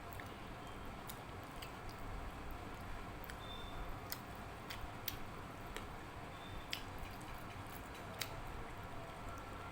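Close-up eating sounds of rice and dal eaten by hand: soft wet chewing and squishing, with several sharp mouth clicks scattered through.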